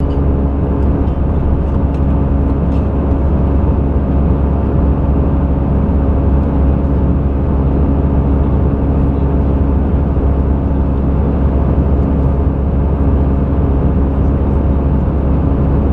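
Airbus A320 cabin noise in flight: a steady, deep rumble of the engines and airflow with a constant hum, unchanging throughout.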